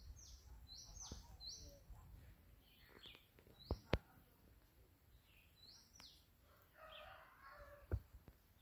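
A small bird giving short, high chirps that slide downward, in quick groups of two to four, and a few sharp clicks in the middle and near the end.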